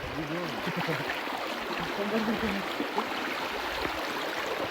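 Mountain river rushing steadily, with people's voices talking over it about a second in and again around two seconds in.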